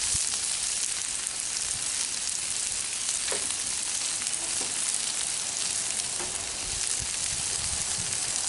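Chicken, vegetables and noodles sizzling steadily on a hot Blackstone flat-top griddle, with a few faint ticks.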